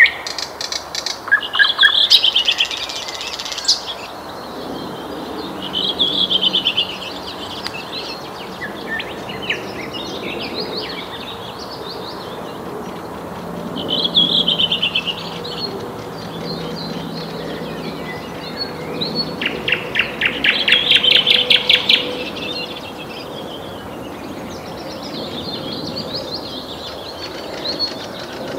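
Nightingale singing in separate phrases of whistles and fast trills, with short pauses between them; the loudest phrase, a rapid rattling trill, comes about twenty seconds in. A steady background hiss runs under the song.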